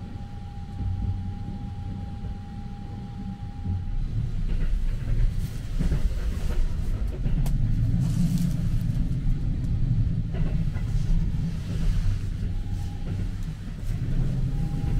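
Sunrise Izumo sleeper train (285-series electric train) running, a steady low rumble heard from inside the compartment, growing louder about four seconds in, with a faint steady tone in the first few seconds. Pillows and bedding rustle as they are handled.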